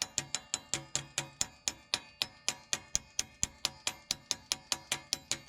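A hammer tapping a seal driver to set a new rear axle seal into a Ford 8.8 axle tube: quick, even metal-on-metal taps, about four or five a second, each ringing briefly, worked around the seal so that it goes in straight.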